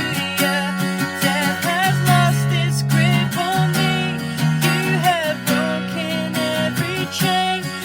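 Acoustic guitar music: steady strumming with a wavering melody line over it.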